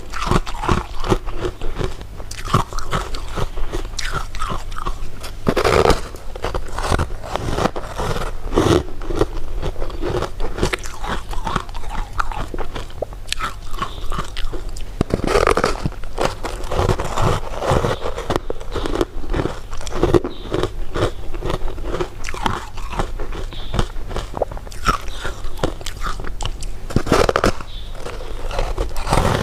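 A person eating close to the microphone: repeated bites and chewing, with sharp crunchy clicks at irregular intervals over a faint steady low hum.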